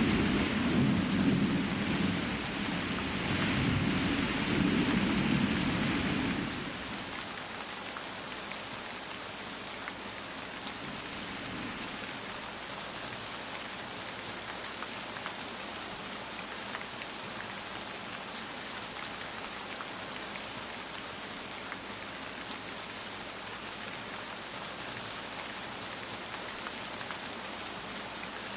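Steady rain falling, an even hiss with scattered drop ticks. For about the first six seconds a loud low rumble sits over it, then stops abruptly, leaving the rain alone.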